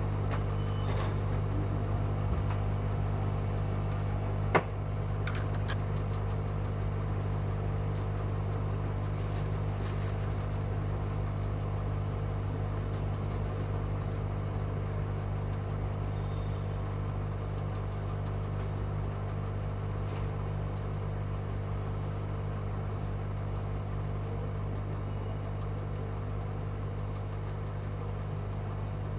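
Hot-air rework blower running steadily with a low hum, heating a phone board to desolder the backlight boost coil. A single sharp click about four and a half seconds in.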